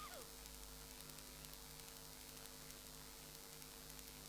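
Near silence: a steady low electrical mains hum with faint hiss.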